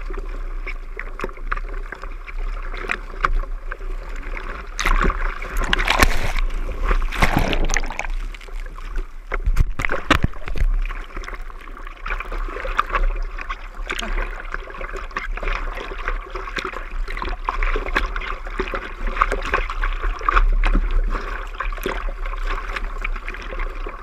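Surfboard paddling in the sea: hands stroking through the water with repeated splashes, and water washing around the board, with louder rushes of water about five and ten seconds in.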